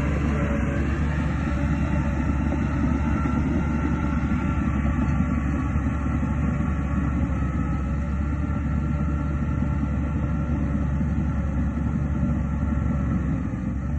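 Shantui DH17C2 crawler dozer's diesel engine running steadily under load, with a low drone and a faint high whine above it.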